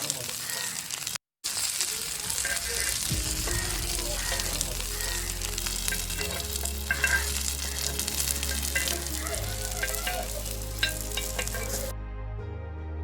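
Masala-coated fish pieces frying in sesame oil, with a steady sizzle and spatter. Soft background music with low held notes comes in about three seconds in. The sizzle cuts off near the end, leaving only the music.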